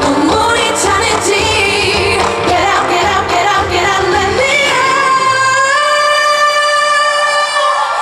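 Live pop song with full band backing and a female lead vocal. About halfway through, the drums and bass drop away and the singer holds one long high note, which ends just before the close.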